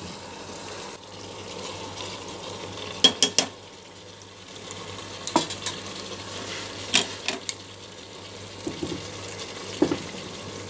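Mutton curry sizzling steadily in a pressure cooker pot on low heat, while a steel ladle stirs it and clinks sharply against the pot several times, three quick clinks about three seconds in and single ones after.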